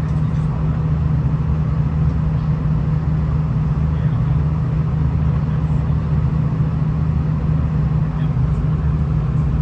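Cabin sound of a V/Line VLocity diesel railcar under way: a steady low engine drone over the rumble of the train running on the track.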